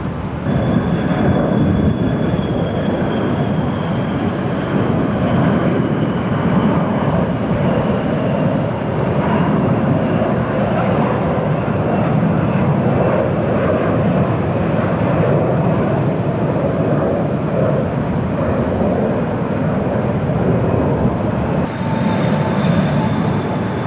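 Jet airliner passing by: a loud, steady rushing engine noise with a high whine that slowly falls in pitch. Near the end a second high whine comes in.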